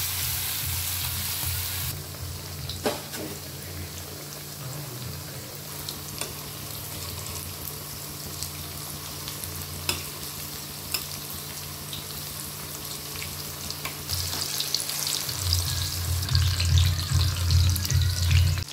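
Batter-coated kakrol (spiny gourd) slices shallow-frying in hot oil in a pan, a steady sizzle with a few sharp taps of a spatula. The crackling grows louder and busier in the last few seconds.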